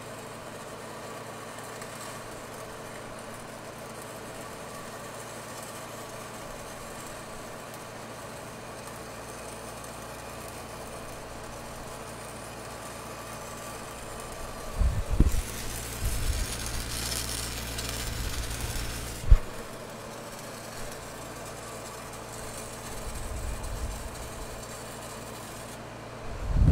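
Steady engine drone of a welding machine running, with a louder, hissing stretch in the middle and one sharp knock a little past two-thirds of the way through.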